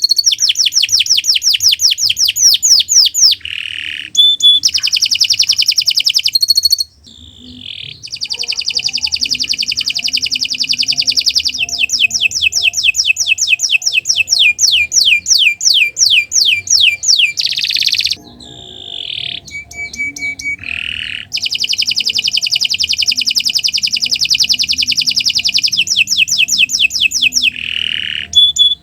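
Domestic canary singing long, vigorous trills: fast runs of repeated high notes, about six a second, in phrases several seconds long. The song breaks off briefly about seven seconds in and again around eighteen seconds in.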